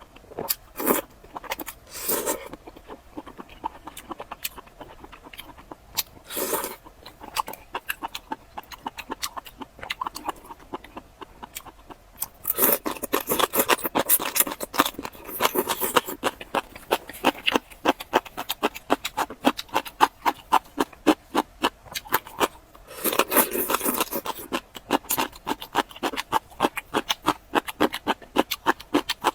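Close-miked eating sounds: chewing and crunching, a rapid run of short crisp clicks. It comes in scattered bursts at first and turns into steady, dense chewing about halfway through.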